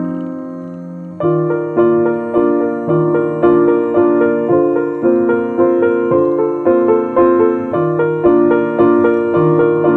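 Background piano music: a held chord, then from about a second in a steady run of notes at about two a second.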